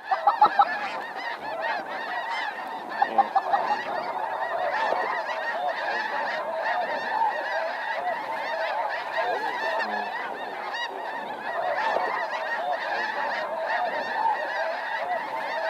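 A dense chorus of many snow geese honking and yelping together, a continuous din of overlapping calls, with a few louder calls near the start and about three seconds in.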